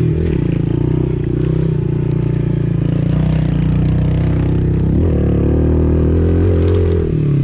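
Pit bike engine running under throttle in third gear, held at a steady note with a shift in pitch near the start and again about five seconds in. The rider says afterwards that it bogged hard out of the corner.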